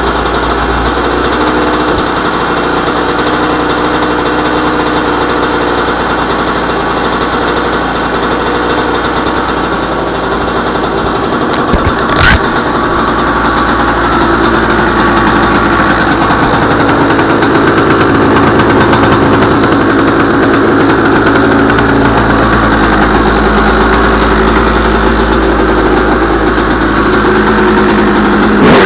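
A 2000 Honda CR125's 125cc two-stroke single-cylinder engine running steadily just after a cold start. There is a short sharp blip about twelve seconds in, and the engine gets slightly louder over the second half.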